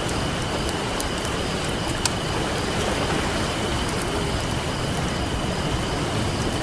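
Wood campfire crackling, with scattered sharp pops and one louder pop about two seconds in, over a steady wash of ocean surf.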